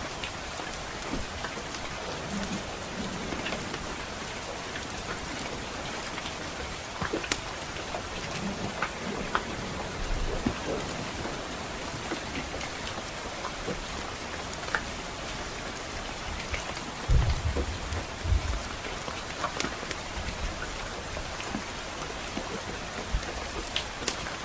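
Steady soft rain pattering on a roof, with scattered sharp crackles and pops from a wood fire. About two-thirds of the way through, a brief low rumble comes in and is the loudest part.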